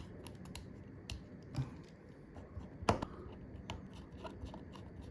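Small, sharp clicks and taps of smartphone parts and tools being handled and pressed into place during an iPhone XR repair, the loudest about three seconds in.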